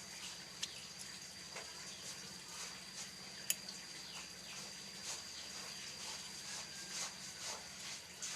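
Munia (prit kaji finch) giving repeated short, thin, high chirps over a steady high-pitched tone, with a sharp click about half a second in and a louder one about three and a half seconds in.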